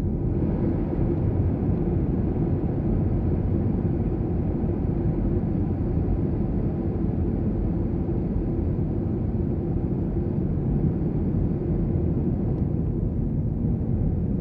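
Steady low rumble inside an Airbus airliner's cabin in flight: engine and airflow noise, with a faint high whine above it.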